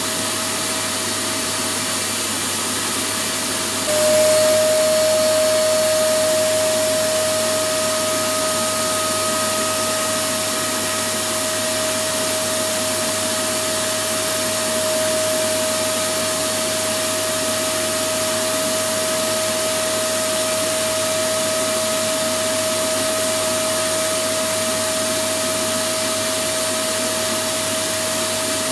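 Electric vacuum cleaner running continuously: a steady rushing motor noise with a constant whine, briefly louder about four seconds in, then even.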